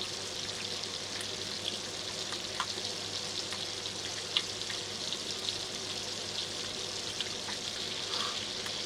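Chicken pieces searing on a very high heat in a mix of olive oil and butter in a frying pan: a steady sizzle with scattered small pops and crackles.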